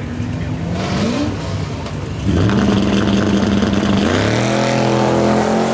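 Drag car's engine revving: a short rev, then held at a steady high pitch for a couple of seconds, then climbing in pitch about four seconds in as it accelerates.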